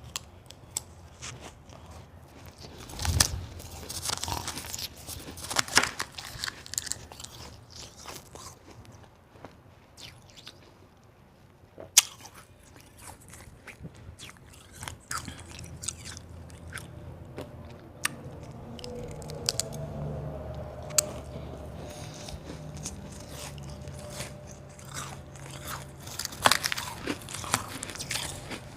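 Hard white ice being bitten and chewed close to the microphone: irregular crunching and cracking bites, with one sharp crack about twelve seconds in the loudest.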